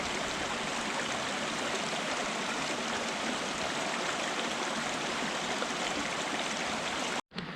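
Creek water running over rocks, a steady rushing, cut off abruptly near the end.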